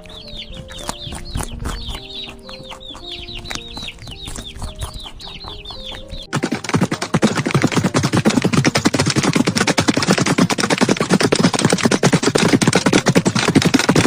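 Chickens calling in rapid short high notes that fall in pitch, over soft background music. About six seconds in, this cuts abruptly to a much louder, dense, noisy clamour.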